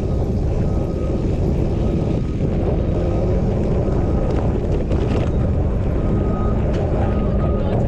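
Steady loud wind rush buffeting a GoPro's microphone while riding a bicycle, with a few faint clicks.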